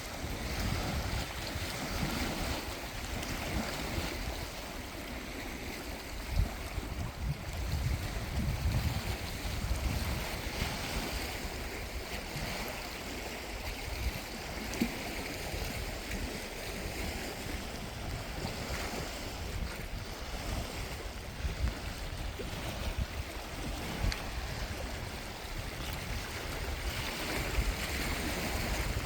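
Gusty wind rumbling on the microphone over a steady wash of water.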